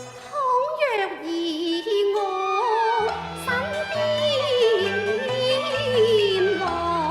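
Cantonese opera music: a sliding, heavily ornamented melody line with wavering vibrato over instrumental accompaniment. It takes a steep downward glide about a second in, and a lower accompaniment part enters about three seconds in.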